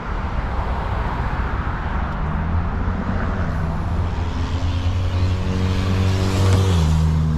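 A vehicle engine running, its low hum growing louder over a few seconds and then dropping in pitch near the end, over steady outdoor traffic noise.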